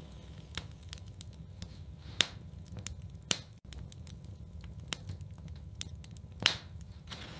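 Wood fire in a fireplace crackling, with a steady low rumble of flames and scattered sharp pops, the loudest about two, three and six and a half seconds in.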